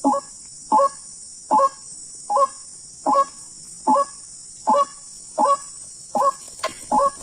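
White-breasted waterhen (ruak-ruak) calling: a short, falling, croaking note repeated very evenly, about one every 0.8 seconds.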